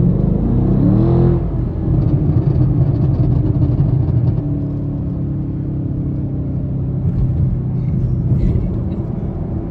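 Chevrolet Camaro SS's 6.2-litre V8 heard from inside the cabin at highway speed: the revs climb sharply over the first second or so as it accelerates, then settle into a steady drone with road noise.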